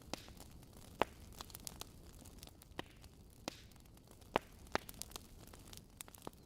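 Wood fire in a fireplace crackling: irregular sharp pops and snaps over a steady low hiss and rumble of the burning fire, the loudest pops about a second in and about four and a half seconds in.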